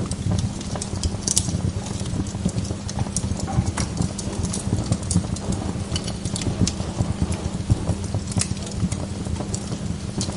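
Wood log fire burning in a fireplace: a steady low flutter of flames with frequent sharp crackles and pops.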